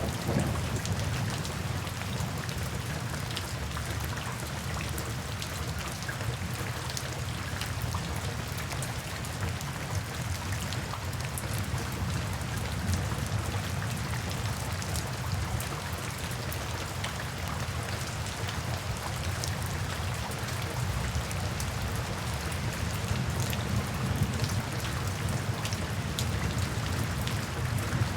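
Steady rain falling, with a constant low rumble underneath and scattered sharp ticks through it.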